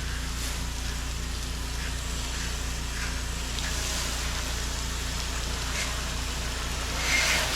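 Gas-engine pressure washer running steadily under a low-pressure downstream spray pattering on pool-cage screening. Near the end the spray turns to a louder hiss.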